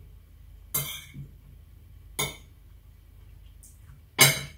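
Metal spoon clinking against a plate while scooping fried rice: three short, sharp clinks, the loudest near the end.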